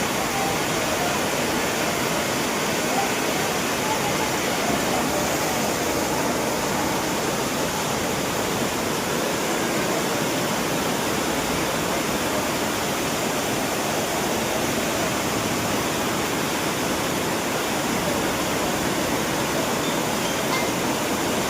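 Heavy rain pouring down steadily, a constant, even rush of water.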